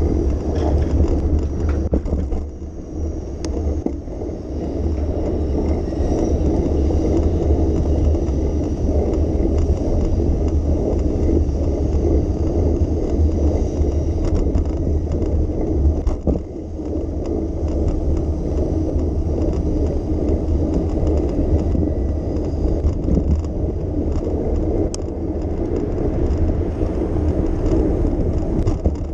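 Steady rumble of a bicycle ride heard from the rider's camera: tyre and wind noise with small rattles and clicks, dipping briefly a couple of times.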